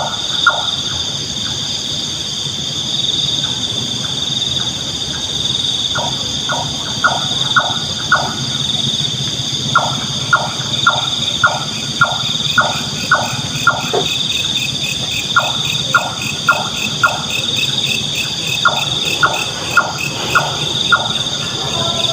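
Nightjar calling: runs of short, evenly spaced notes, about three a second, with gaps of a second or two between runs. Behind it a steady high insect chorus, joined from about ten seconds in by a faster pulsing insect.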